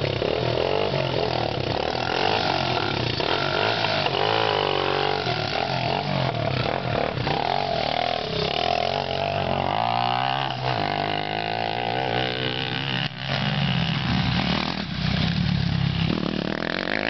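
Several motocross bike engines revving hard, rising and falling in pitch as the bikes ride past, overlapping one another.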